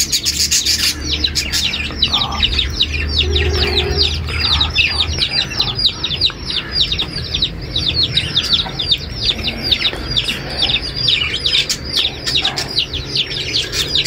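Small birds chirping nonstop: a fast run of short, high, falling chirps, about four or five a second.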